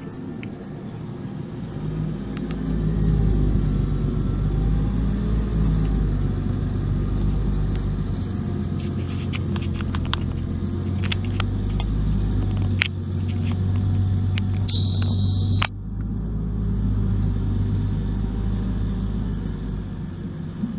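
Engine of snow-removal equipment running steadily with a low hum. About halfway through come a series of sharp clicks and knocks, then a brief high-pitched sound that ends in a sudden knock.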